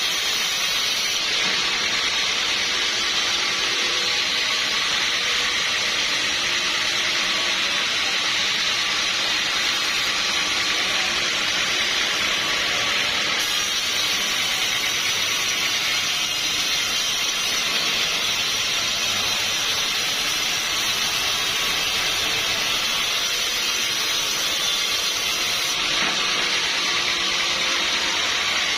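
Sawmill saw running steadily, a constant high-pitched hissing noise that holds at the same level throughout.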